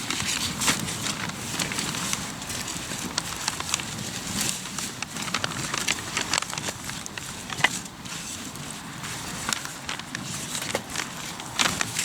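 Hardwood campfire crackling, with irregular sharp pops and snaps over a steady low rumble.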